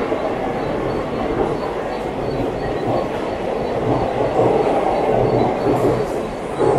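Passenger train coaches passing close by at speed: a steady rumble of wheels running on the rails, with a brief louder surge near the end.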